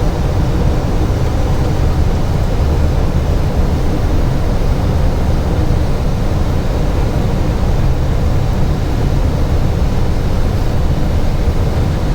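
Steady rush of airflow and engine noise inside an airliner's cockpit on final approach, landing gear down and flaps fully extended, heaviest in the low end with a faint steady hum above it.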